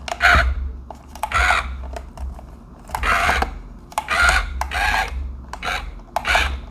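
Remote-control toy excavator's small electric motors and plastic gears running in about eight short, rasping bursts as the remote's buttons are pressed.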